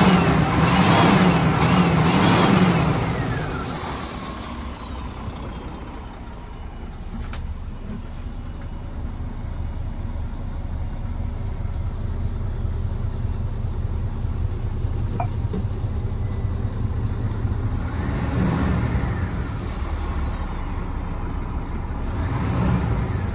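Scania P370 tipper truck's engine running: loud revving with falling pitch for the first few seconds, then a steady low running sound, with another surge about eighteen seconds in and again near the end.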